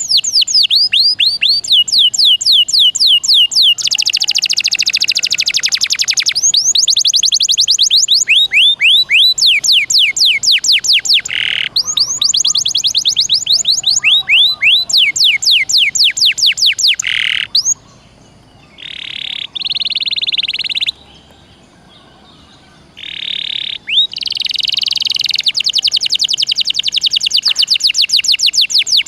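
Domestic canary in full, loud song: fast trills of many short falling notes, broken by buzzy rolled phrases, with two brief pauses about two-thirds of the way through.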